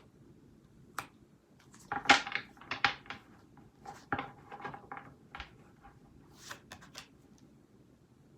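Tarot cards being shuffled and handled: a run of irregular clicks and flicks, loudest about two to three seconds in, thinning out by about seven seconds.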